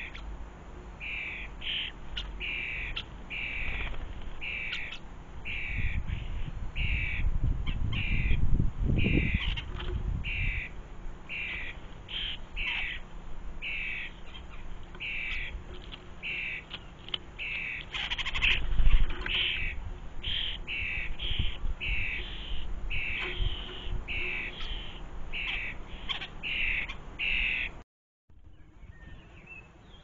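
A bird calling over and over, one short high call a little more often than once a second, over a low rumbling noise that swells about a third of the way in and again just past halfway. The calls break off near the end.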